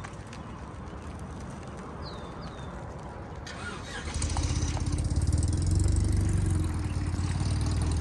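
A car engine starts about halfway through and settles into a steady, low running idle. Faint bird chirps are heard before it.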